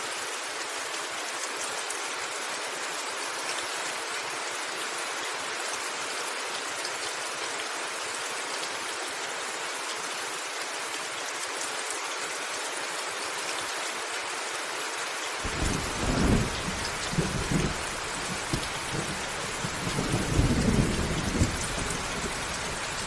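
Steady heavy rain hissing. About two-thirds of the way in, low rolling thunder comes in suddenly, swelling twice in rumbles before the end.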